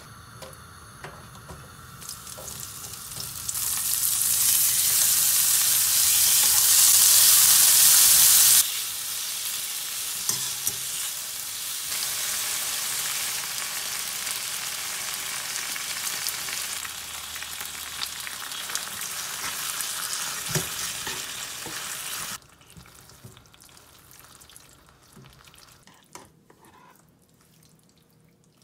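Bacon and onion sizzling as they fry in oil in a nonstick frying pan. The sizzling is loudest in the first third, stays steady but quieter after a cut, and stops suddenly about three-quarters through. After that only faint clicks and scrapes are heard as cooked spaghetti is twirled in the pan with tongs.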